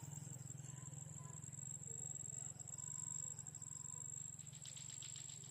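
Low, rolling rumble of distant thunder that fades slowly, with a brief fast insect-like trill near the end.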